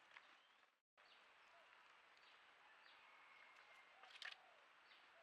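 Faint wild birdsong in forest: short chirps falling in pitch, repeated here and there, with a brief louder burst about four seconds in. The sound cuts out completely for a moment just under a second in.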